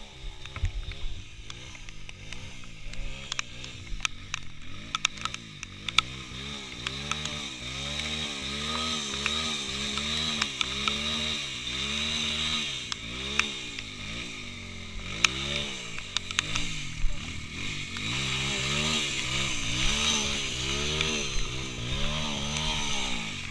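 Small single-cylinder engine of a modified underbone motorcycle, revved up and down over and over, about once a second, as it is ridden along an off-road trail, with scattered sharp knocks.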